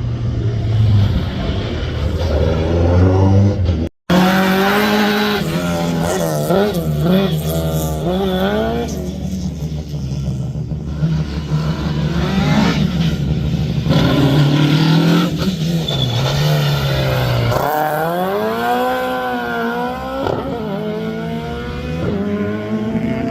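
Rally car engine being driven hard, its revs climbing and falling again and again through gear changes and lifts. The sound drops out completely for a moment about four seconds in.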